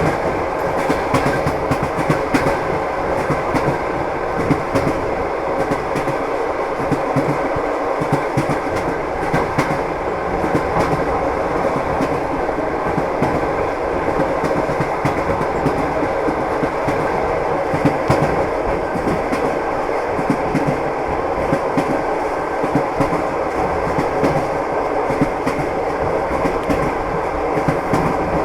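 Train running at speed: a steady rumble of the rolling carriage with the wheels knocking and clicking over the rail joints, the clickety-clack of train wheels.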